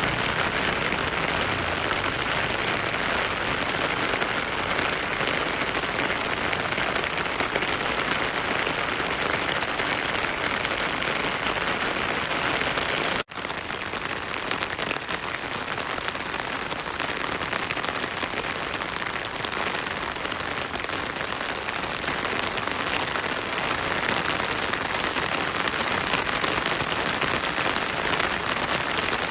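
Heavy rain falling steadily, a dense even hiss. It cuts out for a split second about halfway through, then resumes.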